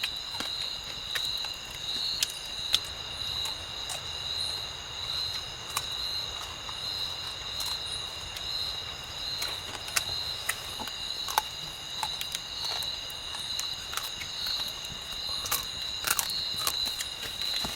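Insects, crickets or similar, chirring steadily at a high pitch with a slight pulse, with scattered light clicks and knocks over it.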